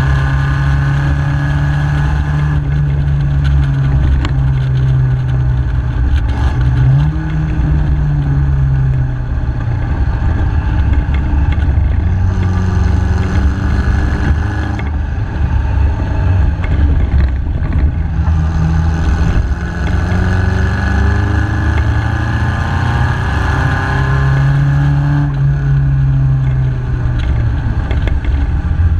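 MG KY Special racing car's engine running hard under load, heard on board. Its pitch climbs as the car accelerates and drops back several times at gear changes and lifts off the throttle, over a constant low rumble.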